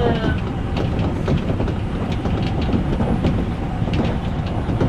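Odakyu electric commuter train running along the track, heard from inside: a steady rumble with scattered clicks of the wheels over the rails.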